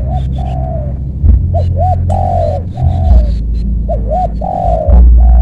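Spotted dove cooing in repeated phrases, each of a couple of short looping notes and then a longer held coo, about three phrases. A loud low rumble runs underneath.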